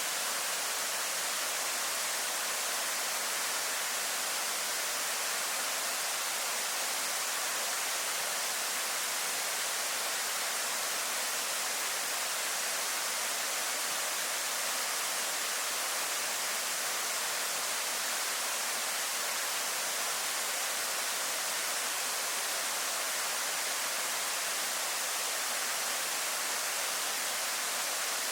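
Waterfall falling steadily, a constant hiss-like rush of water with no changes.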